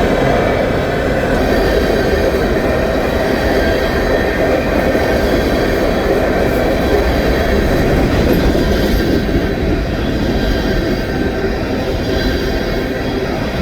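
Canadian National freight train rolling past: a steady rumble of cars' wheels on the rails.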